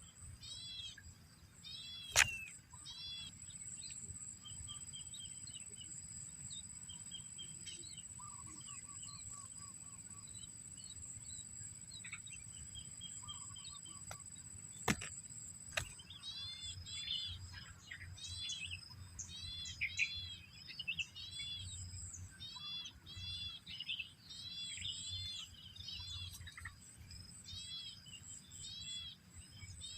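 Small birds chirping: short arching chirps repeated over and over, coming in quick runs in the second half, over a steady thin high-pitched whine. A sharp click about two seconds in and another about halfway through.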